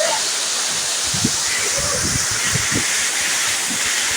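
Waterfall rushing: a steady hiss of falling water, with a few soft low thumps.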